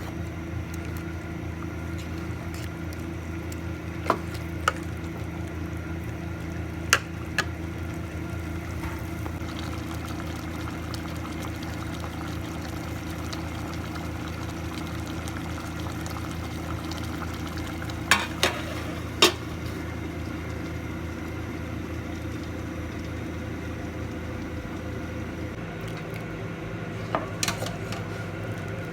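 Curry cooking in a pot over a steady hum, with about ten sharp clicks and knocks of kitchen utensils scattered through it. The hum's lowest tones shift near the end.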